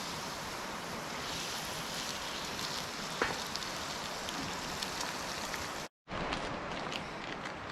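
Eggs sizzling in butter in a skillet over a campfire: a steady hiss with scattered small pops, one sharper pop about three seconds in. The sound cuts out briefly just before six seconds and resumes.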